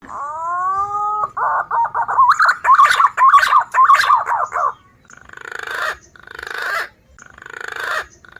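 Recorded calls of wild green pigeons (punai) played as a bird lure: a rising whistled note, then a run of warbling, wavering whistles with clicks, then four rising, raspy notes about a second each.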